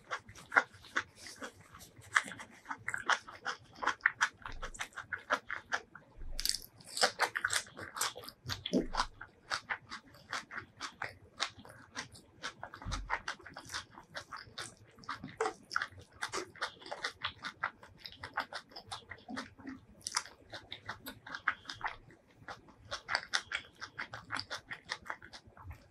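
Close-miked eating: a person chewing and biting mouthfuls of rice and curried boiled egg, with wet mouth noises and a rapid, irregular run of small crunchy clicks.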